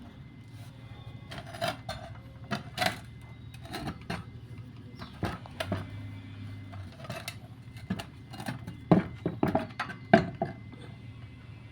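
Irregular metallic clinks and knocks, about twenty in all and loudest near the end, over a low steady hum: hard parts being handled and set down rather than a saw running.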